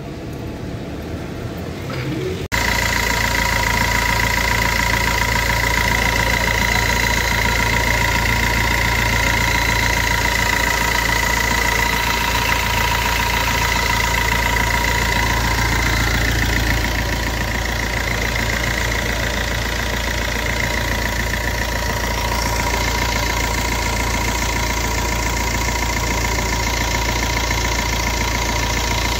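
Car engine idling steadily, with a steady high whine above the engine hum. The first couple of seconds are quieter, then the louder engine sound cuts in suddenly.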